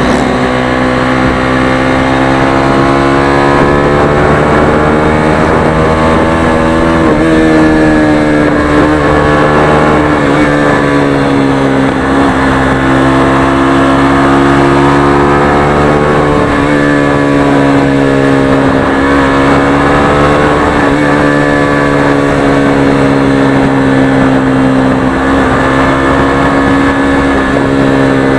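Motorstar Xplorer Z200S's 200cc single-cylinder engine running loud through its stock exhaust pipe without the silencer, at cruising revs while riding. The pitch holds fairly steady and dips briefly and climbs again several times.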